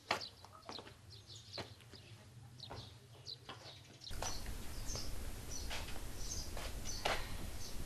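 Small birds chirping: short, high chirps repeated irregularly, with a few sharp clicks among them. The background noise grows louder about four seconds in.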